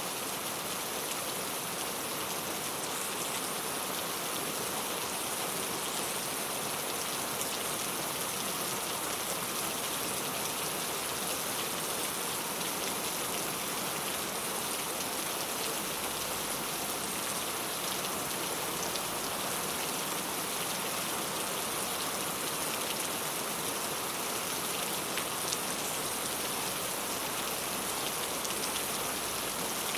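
Steady rain falling on a clay-tile roof, an even hiss with individual drops ticking through it.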